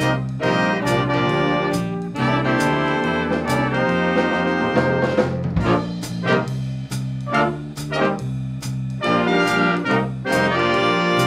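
A band led by brass, with trumpets and trombones, playing held chords and moving lines over regular drum and cymbal hits.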